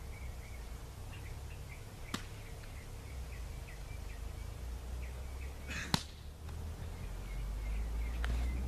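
Small birds chirping over and over over a steady low rumble, with two sharp knocks about two seconds and six seconds in, the second one louder.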